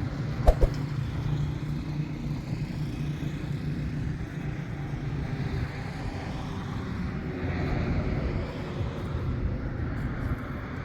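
Steady low engine rumble, like a motor vehicle running, with two short knocks about half a second in.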